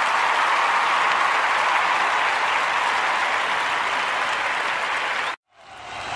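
Steady applause from a crowd that cuts off abruptly about five and a half seconds in, then fades back in a moment later.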